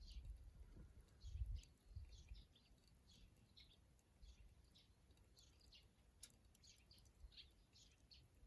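Small birds chirping faintly, many short high calls scattered throughout. A low thud about a second and a half in, with a smaller one near two seconds.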